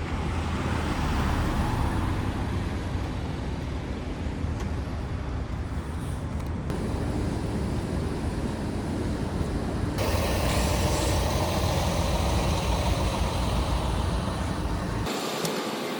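Steady road and engine noise of a vehicle travelling, a low rumble under a hiss, changing abruptly three times: about 7, 10 and 15 seconds in, the last change dropping most of the low rumble.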